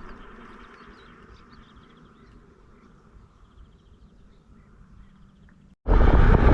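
Faint insect buzzing and chirping over a quiet, fading background. Near the end, loud wind noise on the microphone cuts in suddenly.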